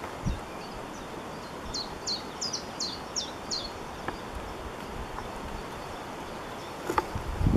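Outdoor background noise with a bird singing a quick run of about seven high, downward-sweeping notes about two seconds in. A few sharp clicks and low thumps come near the end.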